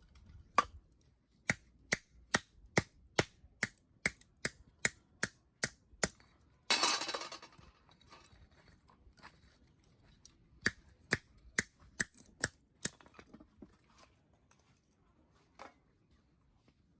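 A run of sharp, evenly spaced clicks, about two a second, broken by a short hissing rush about seven seconds in, then another shorter run of clicks.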